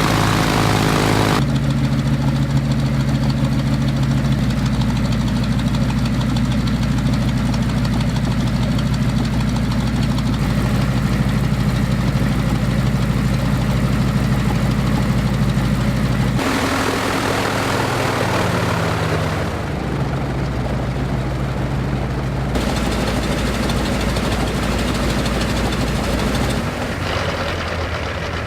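Westland Lysander's nine-cylinder radial engine running on the ground at low power, turning its propeller. The engine speed changes several times: it drops back about a second in, the note slides and shifts about halfway through, and it eases down again near the end.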